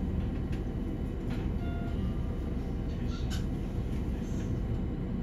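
Cabin noise of a Shinkansen train rolling slowly into its terminal platform: a steady low rumble with a few faint clicks.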